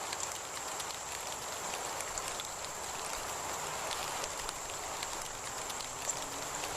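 Heavy rain falling steadily, with many small drop ticks on a nearby surface and a thin steady high tone above it.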